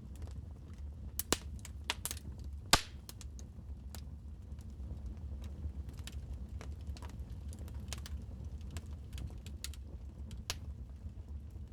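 Wood fire crackling in a fireplace: irregular sharp pops and snaps over a low steady rumble, with the loudest pop about three seconds in.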